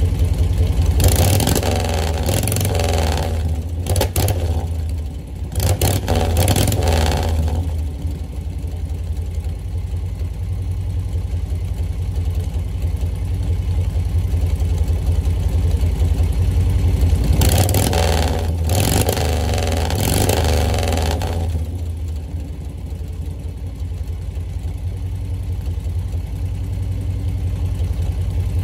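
1940 Harley-Davidson UL flathead V-twin running with a steady low idle beat. It is revved in several short bursts in the first eight seconds and again for a few seconds about 17 seconds in, settling back to idle between.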